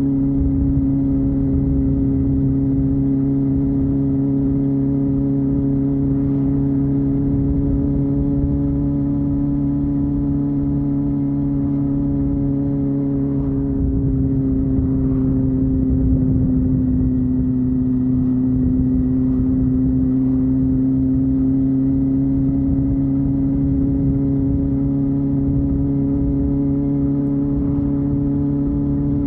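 Honda Hornet 250's inline-four engine running at steady revs, heard through its exhaust. Its pitch sags slightly around the middle and then climbs back.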